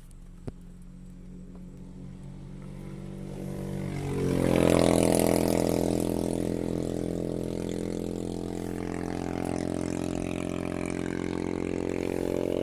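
Propeller-driven aircraft overhead: a steady pitched engine drone that swells and steps up in pitch about four seconds in, then stays loud. A single sharp click comes just after the start.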